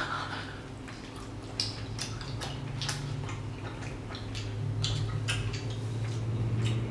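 Close-miked chewing: two people eating steak, with irregular wet mouth clicks and smacks over a low steady hum.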